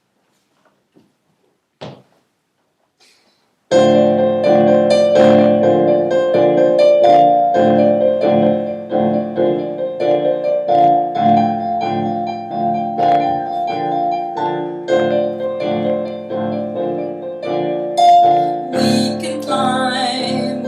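Electronic keyboard playing a song's introduction in a piano voice, chords under a simple melody, starting suddenly about four seconds in after near silence with a couple of faint clicks.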